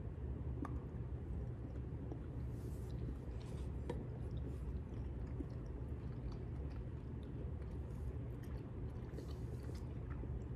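Chewing on a thick dark chocolate bar, with faint mouth clicks over a steady low room hum.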